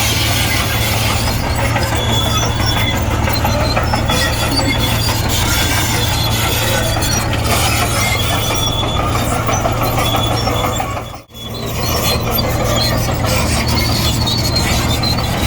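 Komatsu D58E crawler bulldozer working: its diesel engine running steadily under load, with squealing and clattering from the steel tracks. The sound drops out briefly about eleven seconds in.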